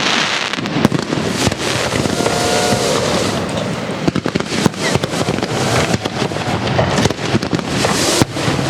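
Castillo fireworks display: a dense, continuous barrage of aerial shells bursting and crackling, with a few faint whistles about two seconds in.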